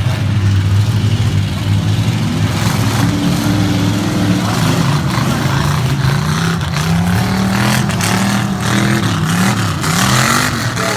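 Several racing truck engines running hard and revving, their pitches rising and falling and crossing one another.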